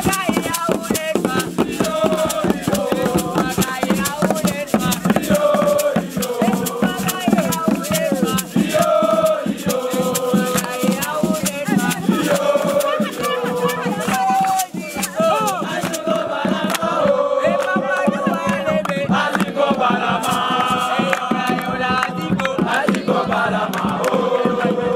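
A group of voices singing a chant-like song together, with a rattle or shaker keeping a fast beat; the shaker fades out about two-thirds of the way through while the singing goes on.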